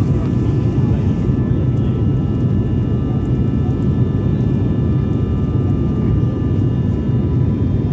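Airliner cabin noise in flight: a steady, loud engine drone with several constant high whining tones over it.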